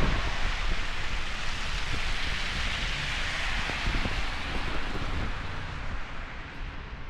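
Snowstorm wind gusting over the microphone: a steady hiss over a low buffeting rumble, easing toward the end.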